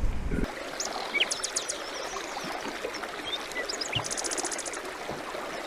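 The tail of a big cat's roar cuts off about half a second in. Then comes a steady rushing hiss, like running water, with many short high bird chirps and two quick buzzy trills over it.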